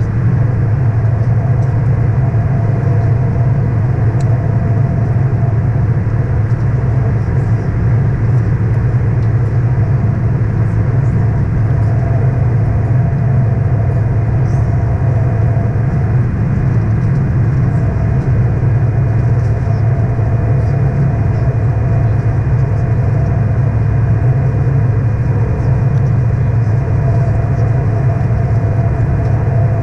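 Steady airliner cabin noise inside an Airbus A319: a loud, even low hum of engines and airflow with a faint steady tone above it, unchanging throughout.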